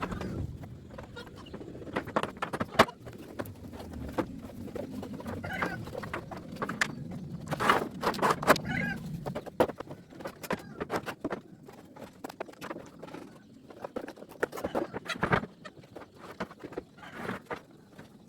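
Scattered knocks and clatter of construction work on a goat pen, with farm animals calling now and then.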